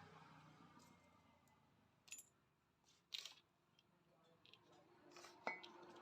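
Near silence broken by a few faint clicks and clinks, about two seconds in, three seconds in and again near the end, as small metal engine parts and tools are handled.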